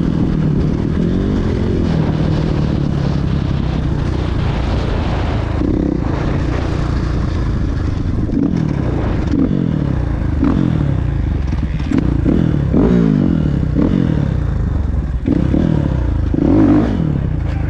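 Motocross dirt bike engines revving, the pitch climbing and dropping again and again over a steady low engine drone.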